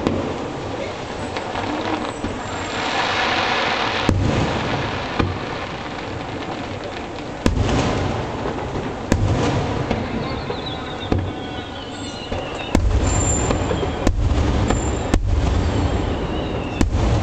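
Aerial fireworks shells bursting, sharp bangs over a continuous rolling rumble. Several falling tones come about ten seconds in, and the bursts come thick and fast over the last few seconds.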